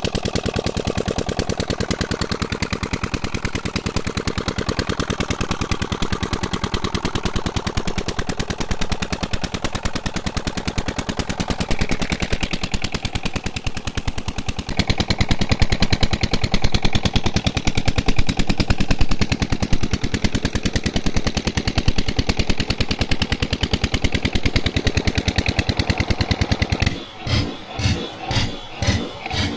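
Old diesel engine driving a tubewell water pump, running steadily with a rapid, even firing beat. Near the end the sound breaks into slower separate thuds, about two or three a second.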